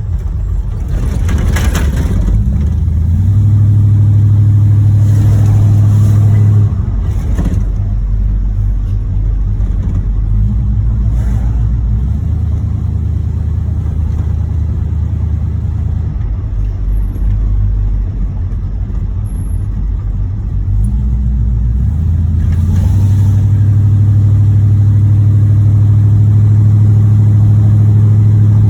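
1986 Chevrolet Monte Carlo SS's V8 engine running while the car is driven, a steady low drone that gets louder about three seconds in, eases off after six or seven seconds, and grows louder again for the last several seconds. The engine has a rod knock in its bottom end.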